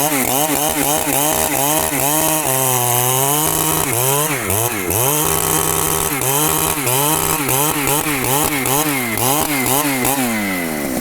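Large two-stroke Husqvarna chainsaw cutting wood. Its engine pitch rises and falls over and over, about twice a second, and holds steadier for a moment around three seconds in. Near the end it drops back toward idle.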